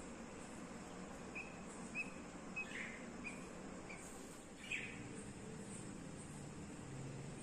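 Baby budgerigars chirping softly: scattered short high peeps, with two harsher calls a few seconds in, over a steady background hiss.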